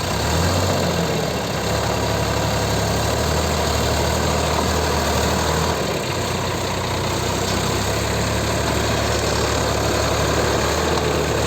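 Tractor engine running steadily, its low note shifting a little about a second in and again about halfway through.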